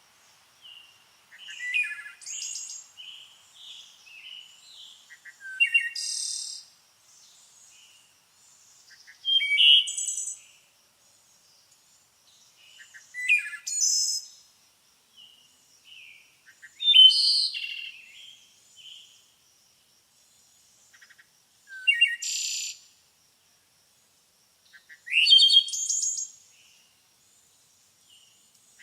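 Songbirds singing: short, varied, high-pitched chirping phrases, one every three to four seconds, with quieter twittering between them.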